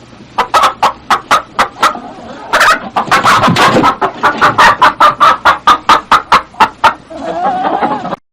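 Hen clucking in a run of short clucks, about three to four a second, with a longer wavering call near the end before it cuts off suddenly.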